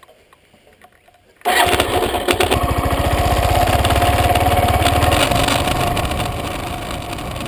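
Motorcycle engine starting: it catches suddenly about a second and a half in with a rapid firing beat, then keeps running steadily.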